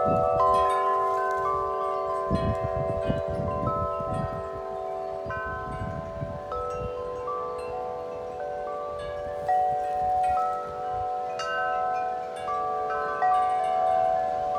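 A large wind chime's tuned metal tubes ringing continuously, struck again and again by gusting wind so that the long tones overlap. Gusts also buffet the microphone with a low rumble at the very start and again from about two to four and a half seconds in.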